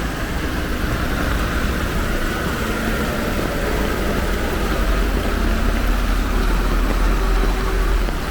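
A motor vehicle's engine running over the steady hiss of heavy rain, growing louder over a few seconds and falling away near the end.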